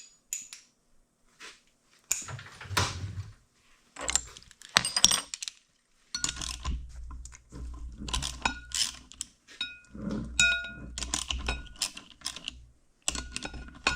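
Metal tools and parts clinking, knocking and scraping on a drill transmission gearbox, many short clinks with a brief metallic ring, amid rumbling handling noise, as set screws holding the gear on its shaft are worked loose.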